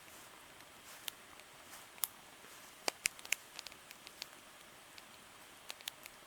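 Wood campfire crackling: irregular sharp pops and snaps, a handful of louder ones, over a soft steady hiss.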